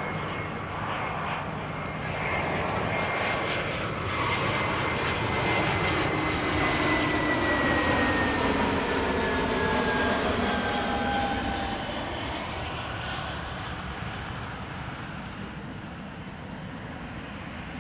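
Airbus A320-232 jet airliner on its landing approach, its IAE V2500 turbofans whining. The engine tones slide downward in pitch as it passes, loudest about midway and then fading away.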